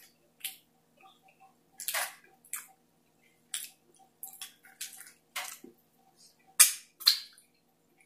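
Close-miked chewing and lip-smacking of a mouthful of chicken-curry burrito: a string of short, wet clicks and smacks, the loudest about two-thirds of the way through.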